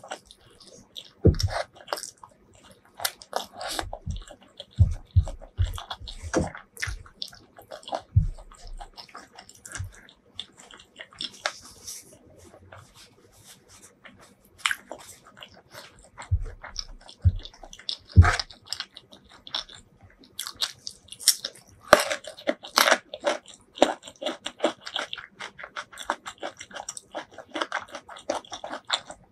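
Close-miked eating: wet chewing, lip smacks and crunching of a rice-and-curry meal eaten by hand, in irregular clicks and smacks. A brief paper tissue rustle comes near the middle, and a dense run of crunching comes about two-thirds of the way through.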